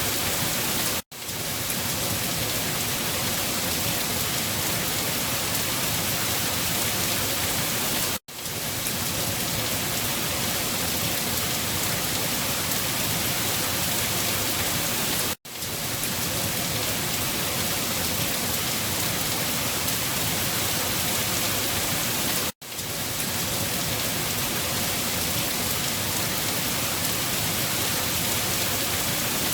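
Steady rain falling on a surface, an even rush of water. About every seven seconds it drops out for a split second and swells back in, four times.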